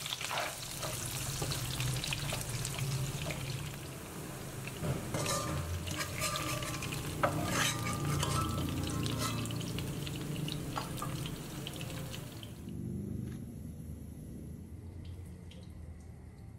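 Carrot slices frying in hot oil in a stainless steel wok: a steady sizzle, with a spatula stirring and scraping and clicking against the pan. The sizzle stops abruptly near the end.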